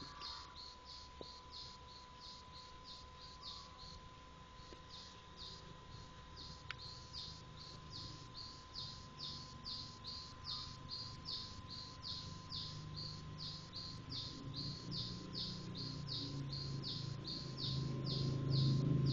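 Bird chirping: a fast, even run of short, high, falling chirps, about three a second, over a faint steady high hum. A low rumble grows louder near the end.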